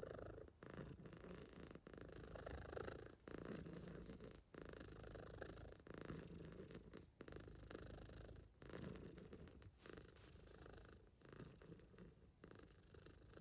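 Calico cat purring softly and steadily, with a short break about every second and a half.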